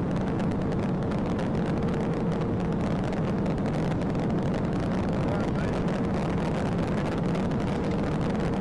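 Steady rumble of a police car's engine and road noise, heard from its dashcam, holding an even level throughout.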